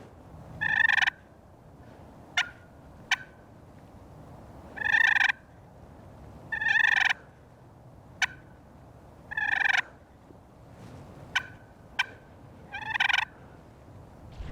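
Hand-worked turkey call imitating a hen: sharp single clucks alternating with short rolling purrs, about ten calls spaced out by pauses, meant to draw a gobbler or bring the hen in.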